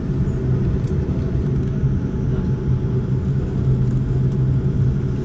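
Cabin noise inside a Boeing 787-9 airliner: a steady low rumble of the engines and air systems, even in level with no rise in pitch.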